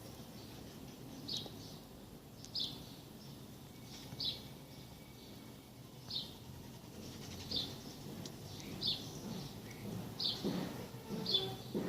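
A bird repeating a short, high chirp about eight times, roughly every one and a half seconds, over faint outdoor background noise.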